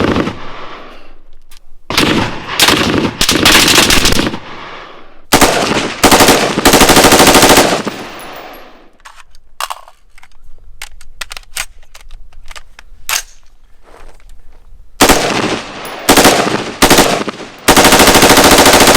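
M60 belt-fed machine gun firing long bursts of automatic fire, heard from downrange. There are several long bursts in the first half, a scatter of single cracks through the middle, then three more bursts near the end.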